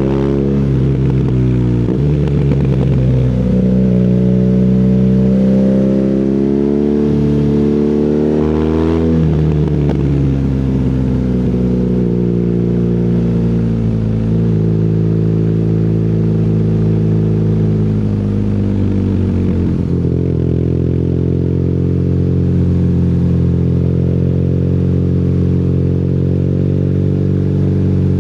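BMW R nineT's air/oil-cooled boxer twin through an Akrapovic exhaust, under way with changing throttle. The pitch climbs for several seconds, drops sharply about nine seconds in, eases down, and changes again around twenty seconds.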